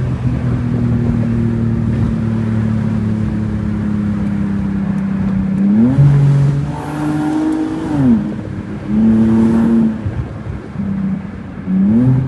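Car engine with a loud exhaust droning steadily, then revving up and down: the pitch climbs quickly, holds and drops about six seconds in, again a little later, and once more near the end.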